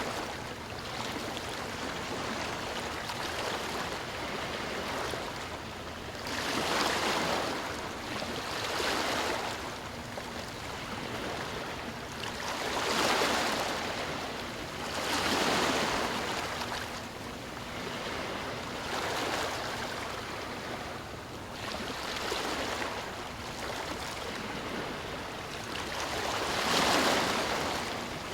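Sea waves breaking on a shore, a steady wash of surf that swells into a louder breaking wave every three to four seconds, the loudest near the end.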